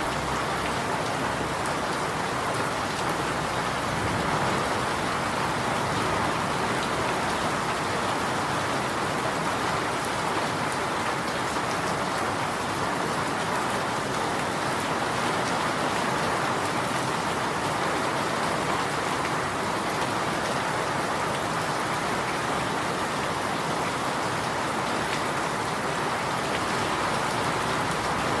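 Steady rain falling, a constant even hiss with faint scattered drop patter.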